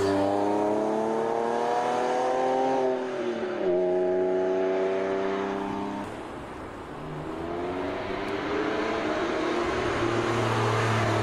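Porsche 911 Sport Classic's flat-six accelerating: the engine note climbs, drops at a gear change about three seconds in, and climbs again before cutting off suddenly about six seconds in. From about seven and a half seconds the engine note rises again, growing louder as the car approaches.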